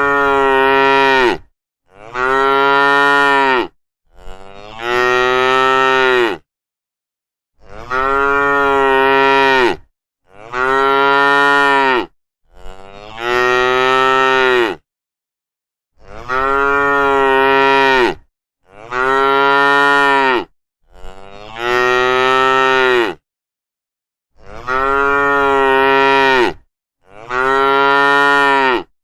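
Cows mooing: about eleven long moos in a row, each lasting about two seconds, with short gaps of dead silence between them.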